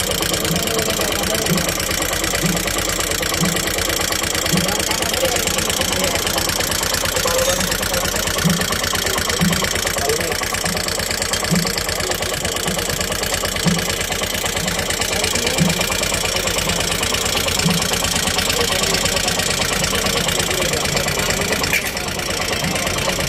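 CNG auto-rickshaw engine, just fitted with a new 225 cc carburetor, idling steadily with fast even firing. A low knock recurs about once a second.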